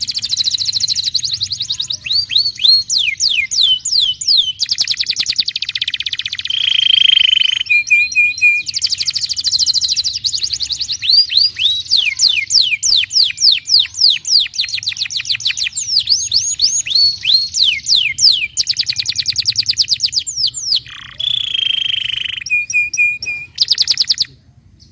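Domestic canary singing a long, continuous song of fast trills and rapidly repeated sweeping notes, with a few brief steady whistled notes; the song stops shortly before the end.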